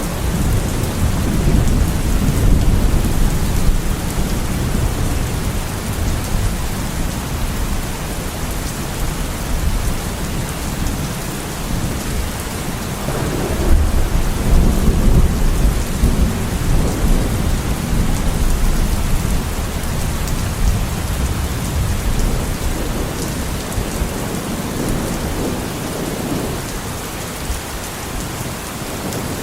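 Heavy rain falling steadily, with deep rolling thunder that swells and fades several times.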